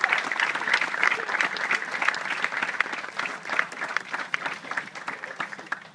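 An audience clapping, many hands together, which slowly fades and dies away near the end.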